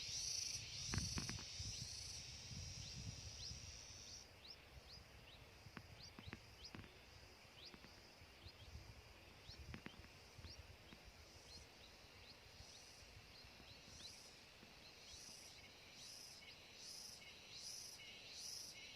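Forest insects trilling. A steady high buzz stops about four seconds in, short faint chirps follow, and near the end comes a rhythmic pulsing chirp. A low rumble sits under the first few seconds.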